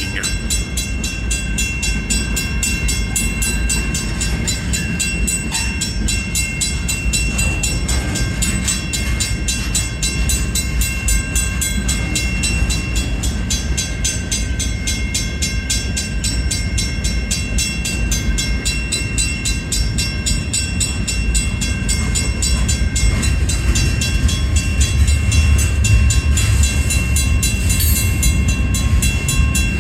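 A long freight train rolling slowly through a grade crossing, its cars running on the rails with a steady low rumble. Over it, a mechanical crossing-signal bell rings with rapid, evenly spaced strikes.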